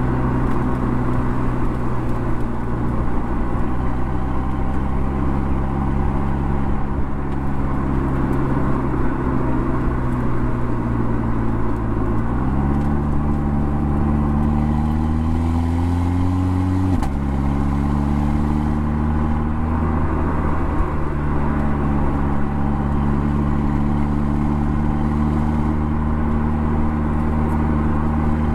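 Mercedes CLA45 AMG's turbocharged four-cylinder engine and exhaust cruising steadily over road noise. About twelve seconds in, the engine note steps up and climbs for about five seconds as the car accelerates. It then drops sharply at a gear change and settles back to a steady cruise.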